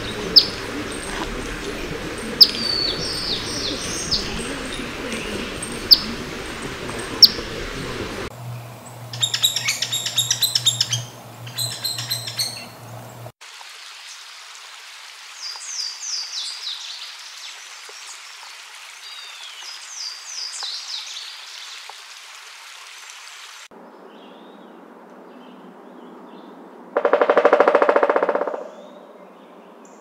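A sequence of forest bird recordings. It opens with an Eastern Phoebe's sharp chip notes over a steady rush. Then comes a few seconds of a Hairy Woodpecker's rapid rattle call, and a Louisiana Waterthrush singing two phrases of slurred, falling notes. Near the end a Pileated Woodpecker drums once: a loud, low roll about a second and a half long.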